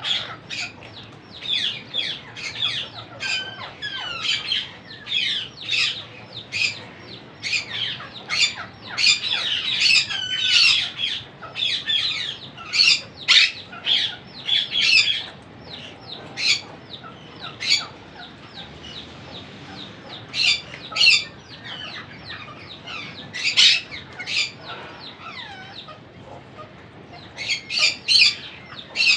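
Monk parakeets calling in quick runs of short, high squawks with sweeping pitch, broken by a few brief lulls: the begging calls of parrot chicks being fed.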